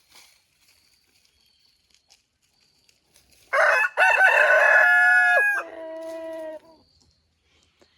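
A rooster crows once, starting about three and a half seconds in and lasting about three seconds. The crow ends on a lower, quieter drawn-out note.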